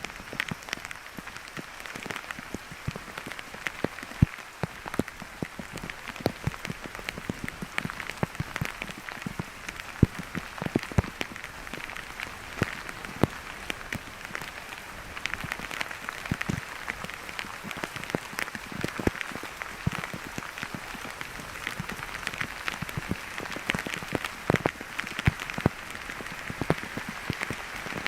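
Steady rain falling, with many irregular sharp taps of drops striking close by.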